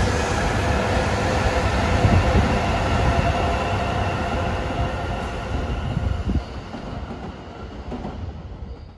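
Shinkansen high-speed train running past: a steady rush of wheel and air noise with a few held whining tones, fading away over the last few seconds as it moves off.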